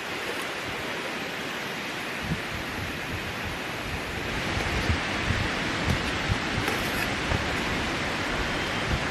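Strong sea wind at the shore: a steady rush of wind and surf, with low gusts buffeting the microphone. It grows a little louder about halfway through.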